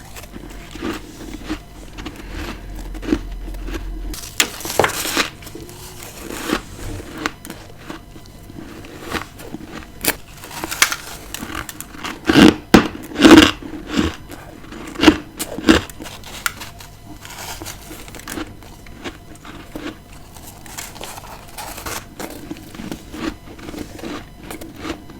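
Close-up bites and chewing of freezer frost, with crisp crunching throughout and a run of loud, sharp crunches about halfway through.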